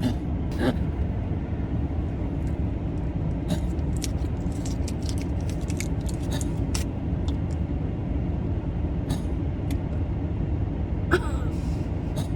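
Steady low rumble of a car's engine and tyres heard inside the cabin while driving, with scattered light clicks and rattles.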